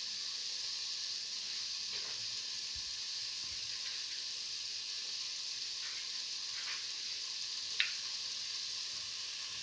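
Potatoes, shallots and tomato sizzling in oil in a stainless steel pan: a steady high hiss with a few faint crackles and one sharper pop near the end.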